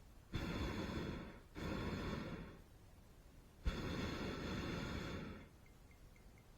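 Hot air balloon's propane burner firing in three blasts of roaring noise. The first two last about a second each, back to back; the third starts near the middle and runs about two seconds.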